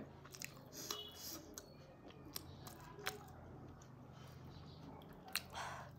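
Faint chewing and wet mouth clicks from someone eating a fried momo, a few scattered small smacks over a low steady hum.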